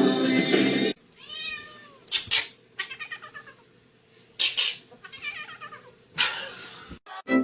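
Music cuts off about a second in, then a domestic cat meows and yowls in several short, loud calls.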